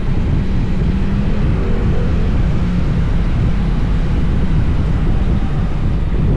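Honda X-ADV's parallel-twin engine running under heavy wind noise on the microphone, a steady low rumble with a faint engine hum in it.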